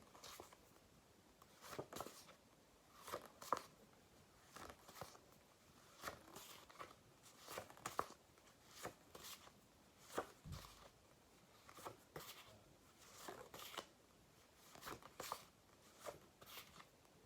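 Near silence broken by faint, short rustles and taps of cards being turned, about one every second to second and a half.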